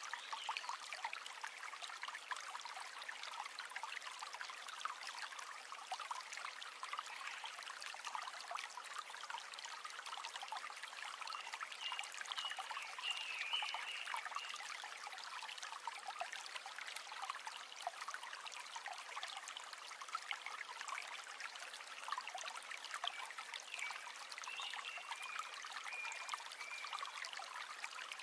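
River water flowing, a steady trickling rush. A few brief, wavering high notes rise over it about halfway through and again near the end.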